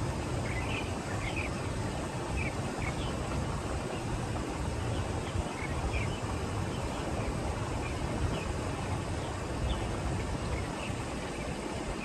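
Small birds giving short, high chirps again and again over a steady low outdoor rumble.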